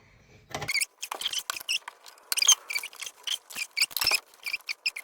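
Small metal parts and rubber fuel line being worked by hand around a small engine's carburettor: a rapid, irregular run of high-pitched squeaks and clicks that starts under a second in.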